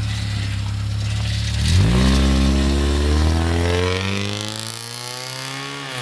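A car engine idling steadily while, about two seconds in, an engine revs up in one long, even climb in pitch lasting about four seconds, growing a little fainter as it rises.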